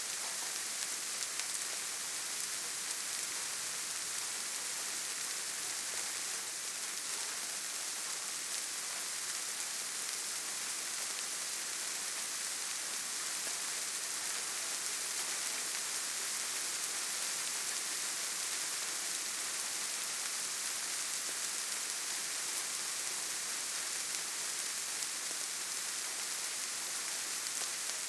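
Steady rainfall: an even hiss of rain with no breaks or single loud drops standing out.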